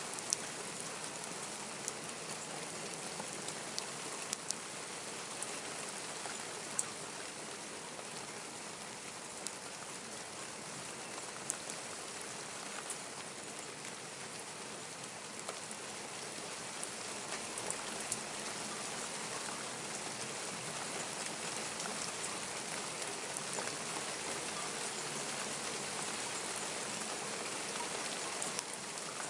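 Steady rain falling, with scattered sharp drips and ticks of drops striking nearby surfaces. It grows slightly louder over the second half.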